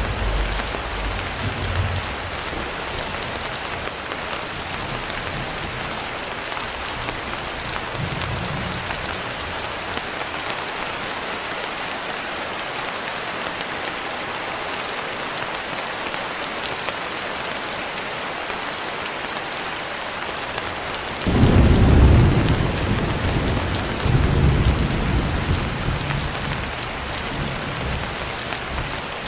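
Steady heavy rain with thunder: a rumble dies away in the first couple of seconds and a faint one comes around eight seconds in, then a sudden loud thunderclap breaks about 21 seconds in, followed by a second rolling rumble a few seconds later.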